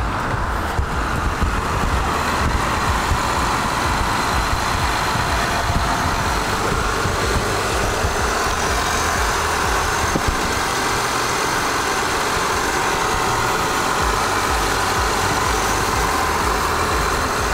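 2012 Honda Crosstour's 3.5-litre V6 idling steadily with the hood open, running well despite the front-end crash damage.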